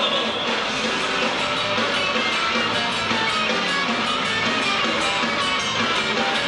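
Live band music at a steady volume, with electric guitar prominent.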